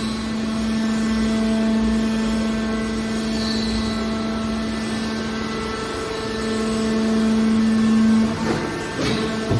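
Hydraulic power unit of a car scrap baler running with a steady hum that swells a little a few seconds before the end. Brief squeals come near the end.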